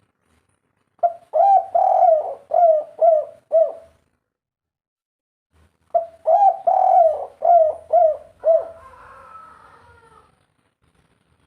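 Spotted dove cooing in the 'kuk 3' song style: two phrases of about six low coos each, a couple of seconds apart.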